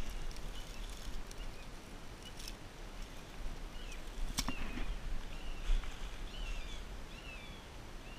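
Small birds chirping with short calls, mostly in the second half, over a steady low rumble on the microphone, with one sharp click a little past the middle.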